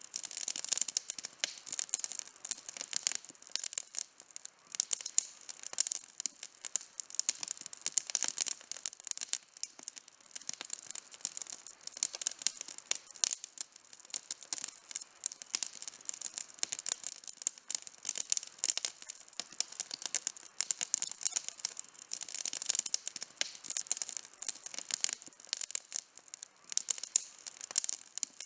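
Campfire wood burning with constant fast crackling and popping, many small sharp snaps with no low rumble.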